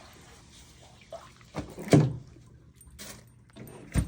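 A few sharp knocks and thuds, the loudest a heavy thud about two seconds in, against faint sounds of standing water.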